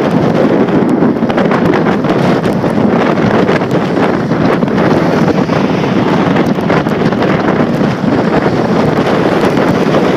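Strong wind buffeting the microphone: loud, steady rushing noise with constant rapid gusting flutter.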